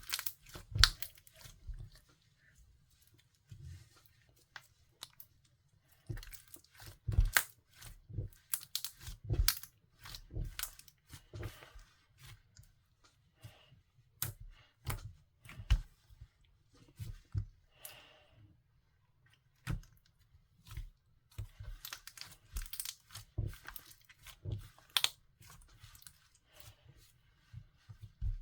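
Clear slime being squished and stretched by hand, giving irregular sticky pops and clicks, in denser runs twice.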